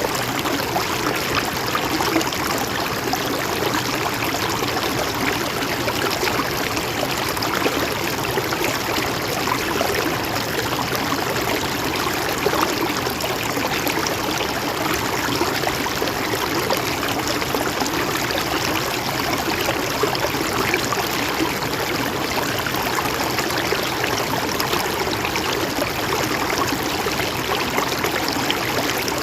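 A mountain stream flowing steadily over rocks, a continuous even rush of water with fine trickling and splashing.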